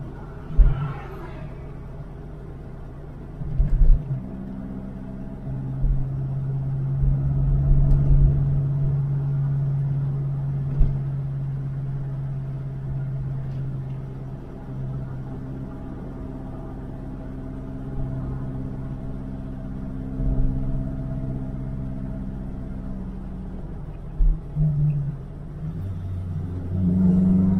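1969 Alfa Romeo 1750 GTV's twin-cam four-cylinder engine heard from inside the cabin while driving, holding a steady note at cruise and rising in pitch near the end as it accelerates. A few short thumps come through from the road.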